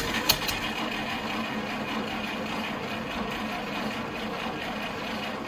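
GAZ-51B inline-six petrol engine making a steady mechanical noise that starts abruptly with a couple of sharp clicks and cuts off after about five and a half seconds.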